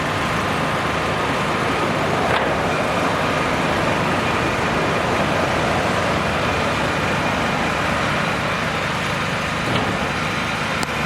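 Steady road traffic noise, vehicles passing continuously, with a faint steady whine running through it.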